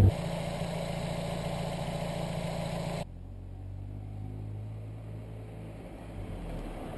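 1991 Mazda MX-5 Miata's 1.6-litre four-cylinder engine running while driving, heard in the open cabin together with road and wind noise. About three seconds in, the sound cuts to a quieter, lower engine hum from outside the car. The hum grows slightly louder as the car approaches.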